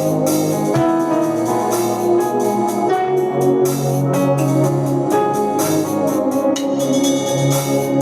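Worship music led by an electronic organ holding sustained chords, with sharp percussion hits cutting through at uneven intervals.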